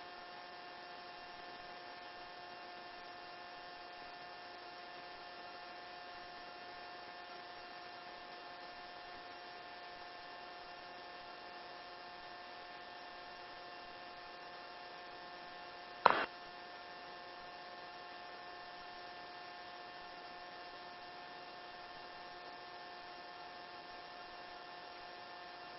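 Steady electrical hum and hiss on a helicopter's intercom audio line, made of several constant tones with no speech. A single brief click cuts in about 16 seconds in.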